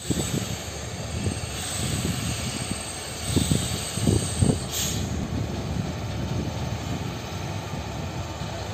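Low, steady rumble of a freight train hauled by electric locomotives, with a few heavy thumps about three and a half to four and a half seconds in.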